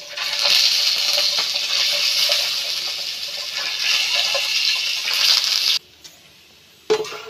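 Peeled boiled eggs sizzling in hot oil in a pan, with a steady hiss that cuts off abruptly near the end.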